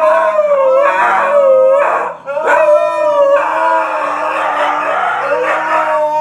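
A dog howling in long, wavering, pitched calls that rise and fall, with a short break about two seconds in.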